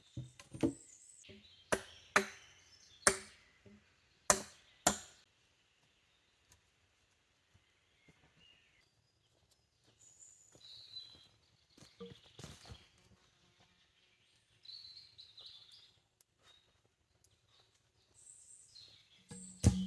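A tool striking wood: a quick run of six sharp blows in the first five seconds, then a few light knocks. Birds chirp in the quieter second half.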